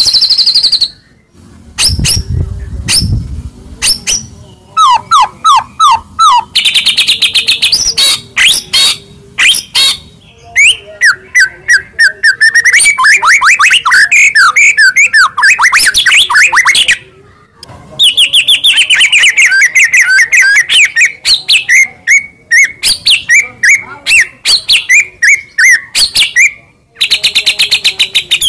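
White-rumped shama (murai batu) singing loudly and continuously: fast repeated notes, trills and chattering runs mixed with gliding whistled phrases, broken by short pauses.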